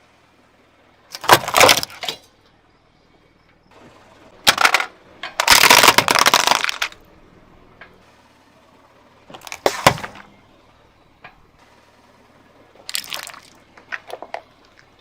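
Brittle objects cracking and crunching as a car tyre rolls over and crushes them, in about six separate bursts; the longest and loudest crunch runs for over a second about midway through.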